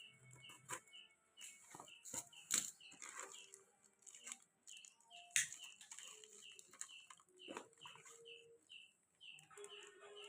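Canary in a cage: a faint high chirp repeated evenly, about two to three times a second, with scattered sharp clicks and brief wing flutters.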